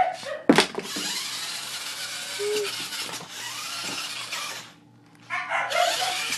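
Electric drive motor and gearbox of a Power Wheels toy truck running with a steady whirring rush for about four seconds after a sharp click, then cutting off.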